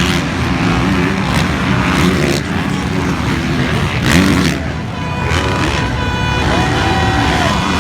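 Motocross dirt bike engines revving and running hard, their pitch rising and falling as the bikes race.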